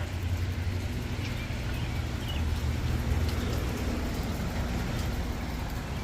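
Steady low outdoor rumble with a few faint, short high chirps over it.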